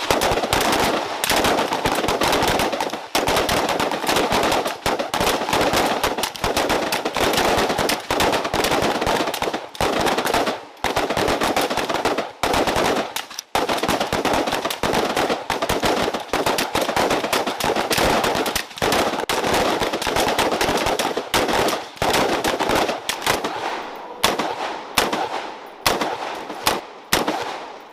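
Sustained small-arms gunfire from several weapons at once: rapid shots overlap densely, then thin out to separate single shots over the last few seconds.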